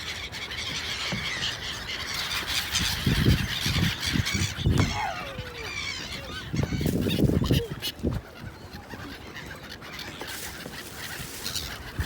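A flock of gulls calling, many harsh overlapping calls with one falling glide about five seconds in. Bursts of low rumble come twice, about three and seven seconds in.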